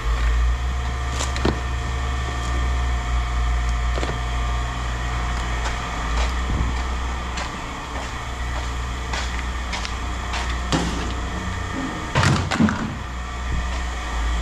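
A heavy engine idling steadily, with scattered knocks and clanks of scrap metal being handled and a louder cluster of knocks near the end.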